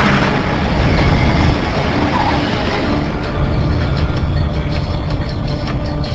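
Loud, steady vehicle noise: a dense rumble with low engine tones underneath, as of heavy engines and traffic during the airliner's emergency landing on the highway.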